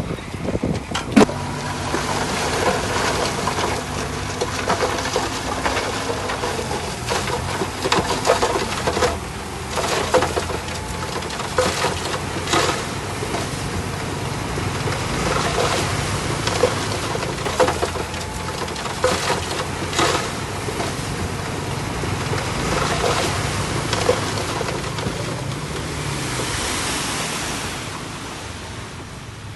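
Komatsu D51PX bulldozer's diesel engine running steadily under work, with repeated clanks and knocks from tracks and blade. The engine note rises briefly near the end, then falls away.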